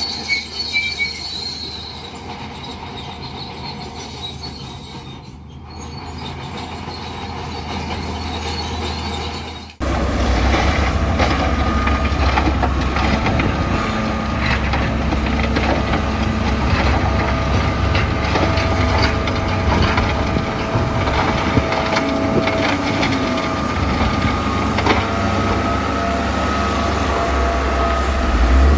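Bulldozer working, its diesel engine running under load while the steel crawler tracks squeal and clank. About ten seconds in the sound cuts abruptly to a louder, busier stretch of the same machine noise, with high squealing tones over it.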